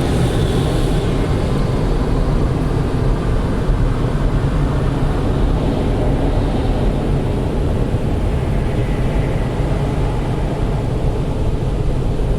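Automatic car wash working over the car, heard from inside the cabin: a steady, loud rushing noise of water and wash equipment on the car body.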